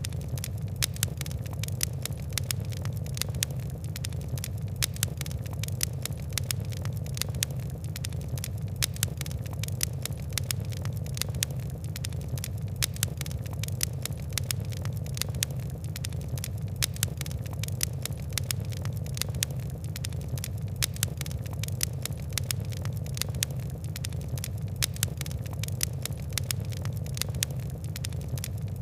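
Wood and coal fire crackling: a dense, constant patter of sharp little crackles and pops over a steady low rumble of burning.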